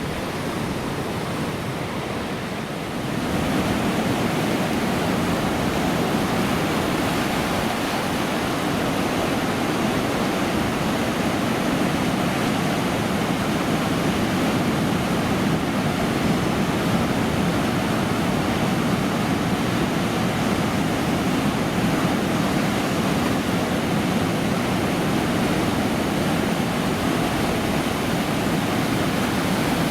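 Steady rushing roar of ocean surf, an even unbroken wash of noise that gets louder about three seconds in and then holds level.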